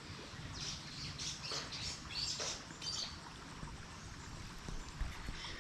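Wild birds chirping in short, scattered high calls over a steady low background rumble.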